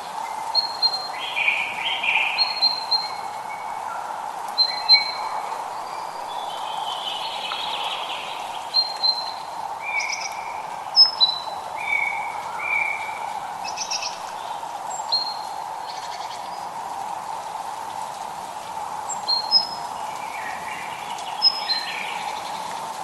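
Several songbirds calling: many short, high chirps and whistled notes, with a few harsher chattering phrases, over a steady background hiss.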